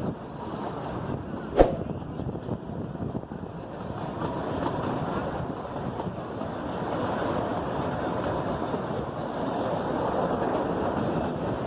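Kalka–Shimla narrow-gauge toy train running: a steady rumble with wind on the microphone, and one sharp click about one and a half seconds in.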